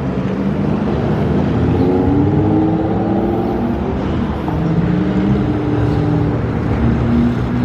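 Car engines running close by, several at once, their notes rising and falling as they rev and pull away.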